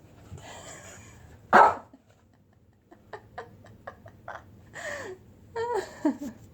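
A dog barks once, loud and sudden, about a second and a half in. A string of light clicks follows, and near the end come a couple of short yips that fall in pitch.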